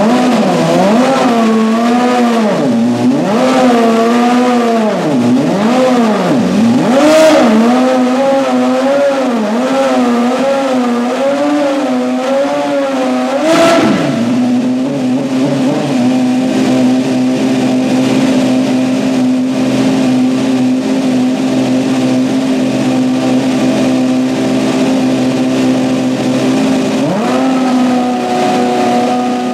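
Ferrari 150° Italia Formula One car's 2.4-litre V8 engine being blipped: the revs rise and fall again and again, with a sharp crack midway through and another as the blipping ends. It then settles to a steady high idle, and steps up to a higher steady note near the end.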